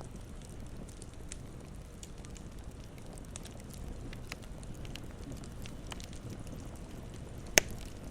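Campfire crackling: scattered small pops and snaps over a steady low rumble of the flames, with one much louder pop near the end.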